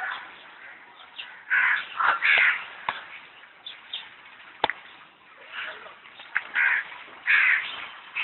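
Birds calling: a cluster of short calls about two seconds in and a couple more near the end, with a sharp click in between.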